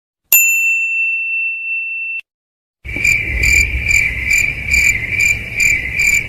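Cricket chirping sound effect: evenly repeated high chirps over a low background rumble, the stock cue for an awkward silence. Before it comes a single high tone, struck suddenly, held for about two seconds and cut off.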